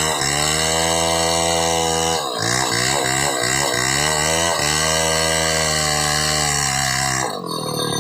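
Two-stroke chainsaw revving: the throttle is blipped several times, with the engine note dropping and climbing back, and then held at high revs for a couple of seconds. About seven seconds in, the sound changes abruptly.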